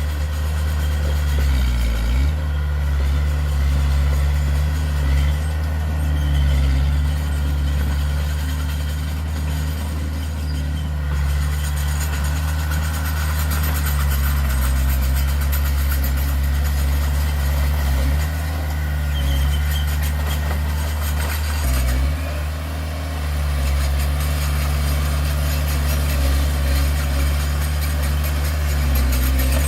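Diesel engine of heavy earthmoving equipment running steadily with a low drone, its pitch dipping briefly twice, once about two seconds in and once about three-quarters of the way through.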